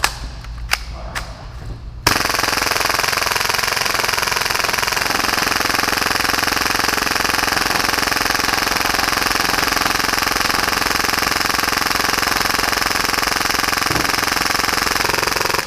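Tokyo Marui Hi-Capa airsoft pistol converted to full auto at about 30 rounds per second, firing one long unbroken burst of roughly 13 seconds. The burst starts suddenly about two seconds in and stops just before the end, with a few sharp clicks before it.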